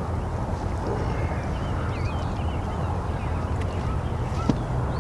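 Steady low outdoor rumble with small birds chirping and whistling now and then above it, and one short click near the end.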